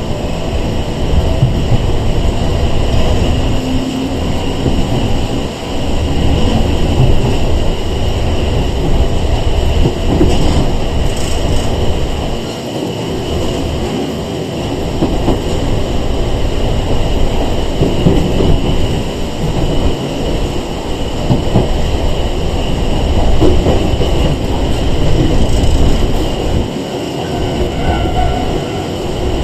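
Running sound inside a Sangi Railway 101-series electric train car (ex-Seibu 401 series) under way: a steady rumble of wheels and traction equipment, with scattered knocks from rail joints.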